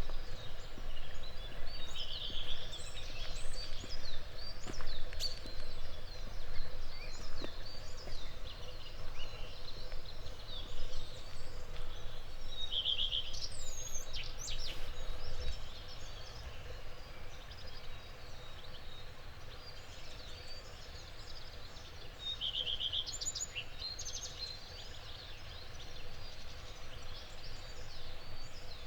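Dawn chorus of several songbirds chirping and singing, with one bird repeating the same short trilled phrase three times, over a steady low rumble.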